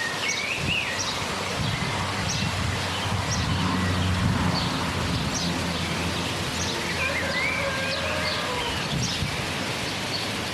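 Steady hiss of light rain falling in a garden, with small birds chirping and calling throughout. A low hum rises and fades in the middle.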